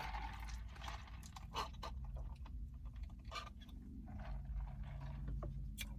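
Someone drinking a fizzy orange Fanta: quiet sips and swallows with scattered small clicks and rustles.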